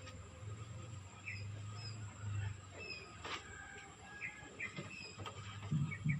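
Small birds chirping: short, high chirps, many falling in pitch, repeated roughly every half second to second, faint, over a low steady hum.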